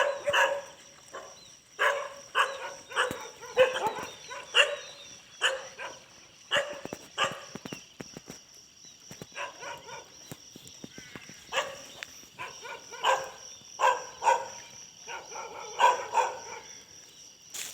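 Dog barking over and over in irregular runs, with short pauses between the runs, over a steady high-pitched background tone.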